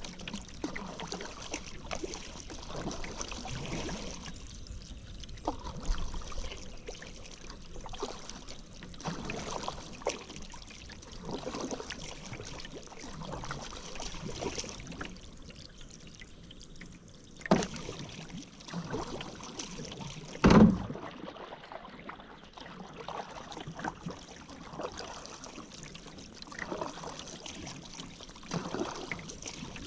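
Paddle strokes in river water, splashing and dripping about every second or two. Two sharp knocks come a few seconds apart past the middle, the second the loudest sound.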